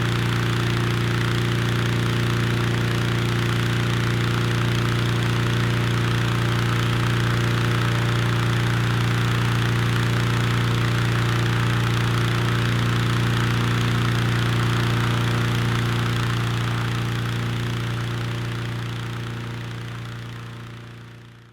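A steady low drone with overtones, set off by strong wind, over a rushing wind hiss. It fades out over the last few seconds.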